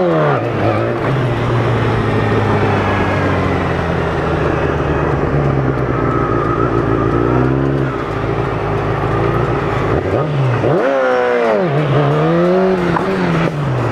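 Sport motorcycle engine under way, its pitch dropping right at the start, holding steady for several seconds, then rising and falling several times near the end as the throttle is opened and closed.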